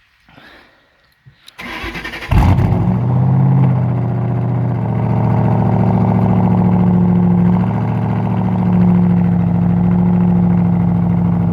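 2005 Ford Mustang GT's 4.6-litre V8 cold-started: after about a second and a half the starter cranks briefly, the engine catches with a loud flare, then settles into a steady idle.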